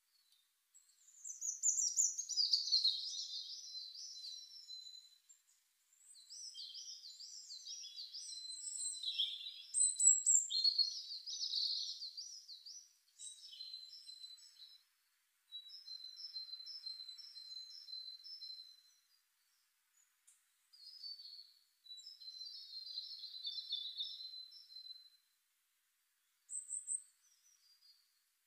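A songbird singing high-pitched warbling, trilled phrases a few seconds long, with short pauses between them.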